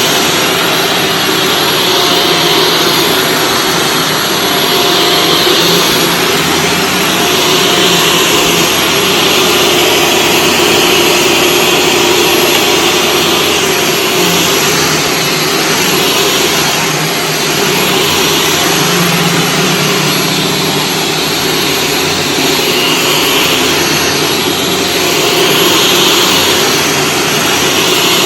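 Shark Stratos vacuum cleaner running steadily with its brushroll on carpet, the motor's hum and airflow swelling and easing every two to three seconds as it is pushed back and forth.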